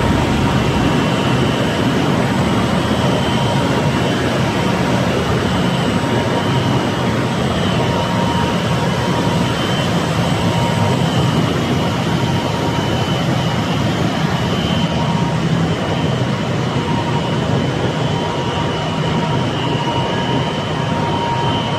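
Glass tempering line machinery running: a steady, loud rushing noise with a constant high whine and a low rumble.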